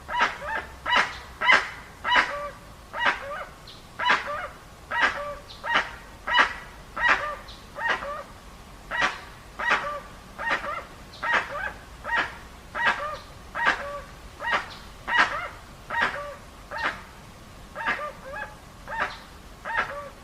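A farm animal giving short, harsh calls over and over, about one and a half a second, without a break.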